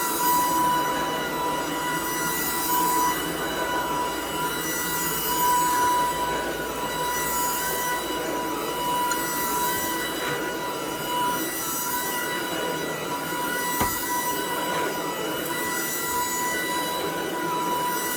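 Shark DuoClean cordless stick vacuum running with a steady high-pitched motor whine, its airflow hiss swelling every two to three seconds as it is pushed back and forth, with one sharp click about three-quarters of the way through.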